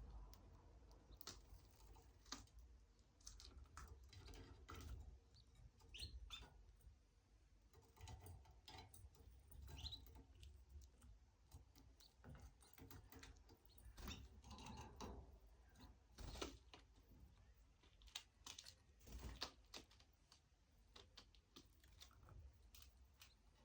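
Pet canary, heard faintly: scattered small clicks and scratches, with a couple of brief high chirps about six and ten seconds in.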